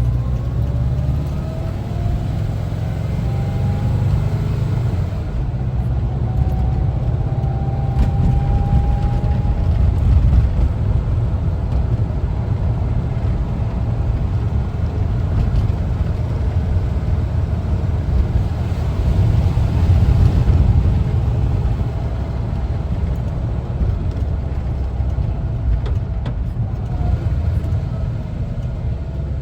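1974 Volkswagen Westfalia camper's air-cooled Type 4 flat-four engine running while driving, with a steady low rumble of engine and road. It swells a little now and then, and a faint rising whine comes in about a second in and again around eight seconds.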